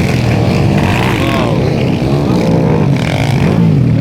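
Several underbone motorcycles racing, their small engines revving up and down with overlapping, rising and falling engine notes.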